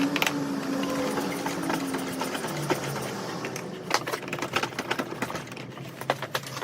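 Rapid, irregular mechanical clicking and clattering, with a steady hum that fades out about two seconds in.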